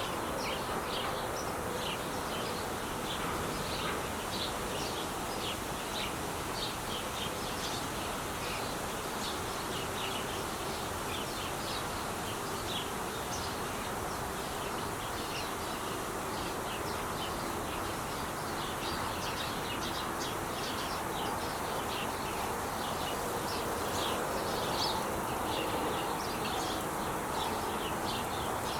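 Steady hum of traffic on the 5 freeway, with small birds chirping rapidly over it.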